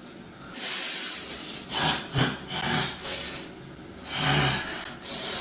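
Aerosol spray hissing in several short bursts, spraying colour to turn hair yellow.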